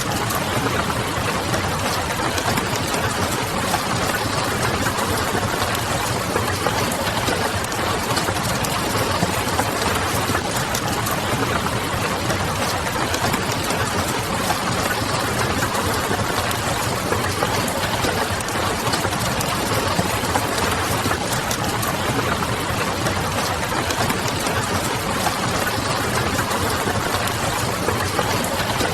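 Steady hiss of rain mixed with the soft crackle of a wood fire, over a low hum.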